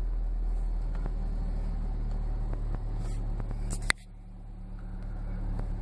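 Car engine idling steadily just after starting on the first try, after sitting unused for a month. About four seconds in there is a sharp click, after which the sound drops and slowly builds back up.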